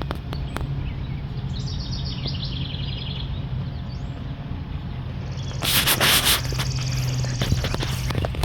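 Outdoor background noise with a steady low hum, a bird chirping a quick run of high notes about two seconds in, and a brief burst of rushing noise around six seconds in.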